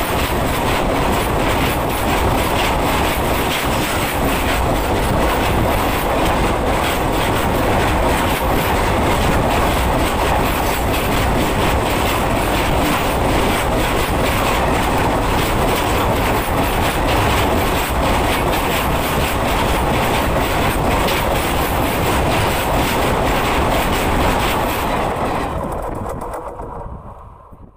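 Railway coaches running at speed directly over the track-level microphone: a loud, steady rumble of steel wheels on rail with rapid clattering. The sound fades out over the last few seconds.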